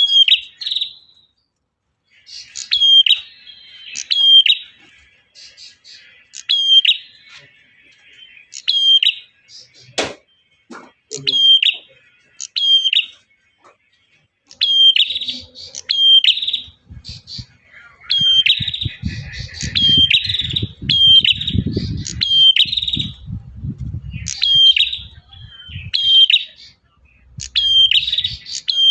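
Male prenjak (prinia) giving loud, sharp chirping calls, repeated in short pairs and runs every second or two, as used to lure a female. A sharp click sounds about ten seconds in, and a low rumble runs under the calls in the second half.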